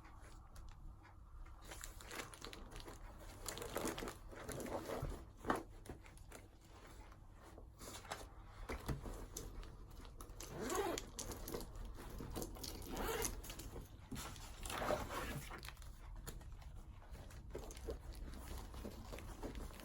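Soft, irregular rustling and scraping of paper at a desk during study work, in uneven strokes of about a second each, with one sharp tap about five seconds in.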